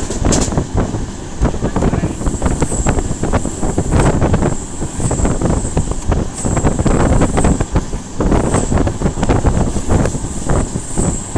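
Train running along the track: a steady low rumble, with wind buffeting the microphone.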